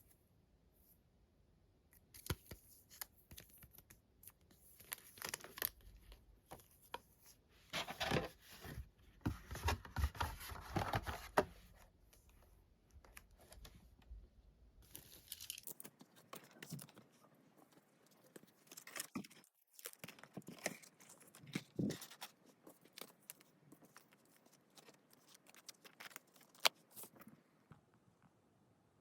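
Packaging being torn open and crinkled by hand, with many small handling clicks and rustles, densest in the first half.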